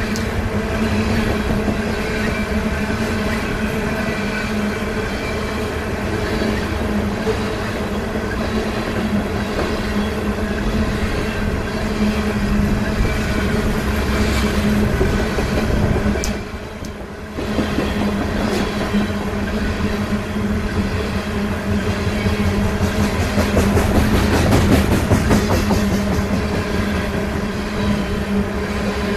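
Coal train's hopper cars rolling past, steel wheels clicking in quick succession over the rail joints, with a steady hum underneath. The sound briefly drops about two-thirds of the way through.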